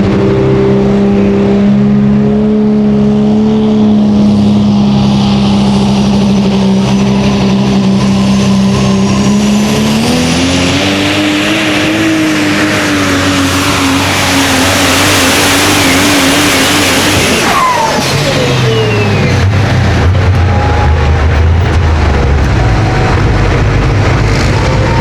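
A competition pulling vehicle's engine under full power during a pull. The engine pitch climbs about ten seconds in with a high whine rising above it, and the noise grows loudest for several seconds. Then the throttle is cut suddenly, and the pitch falls away to a lower running note.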